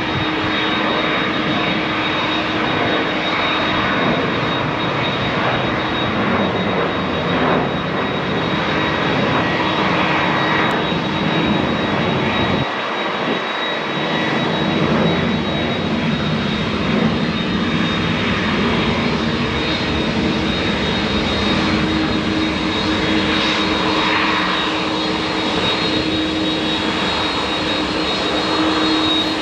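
Airbus A330's twin GE CF6-80E1 turbofan engines running steadily: continuous jet noise with a steady low hum and a high whine.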